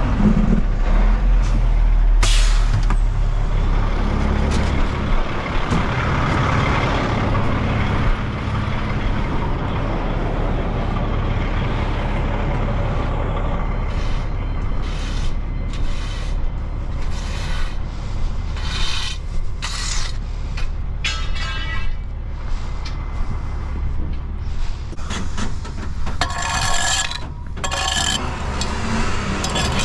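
Heavy truck engine running steadily, with a string of short knocks and scrapes in the second half.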